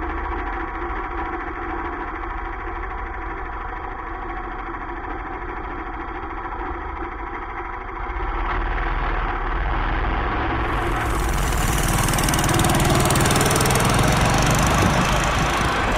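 Go-kart's small engine running steadily, then louder and fuller from about eight seconds in, as if revving or under load.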